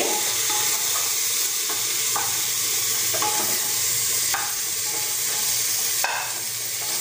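Chopped vegetables and spice powders sizzling in hot oil in a pressure cooker, being stirred and sautéed, with a few short scrapes of the spatula against the pot.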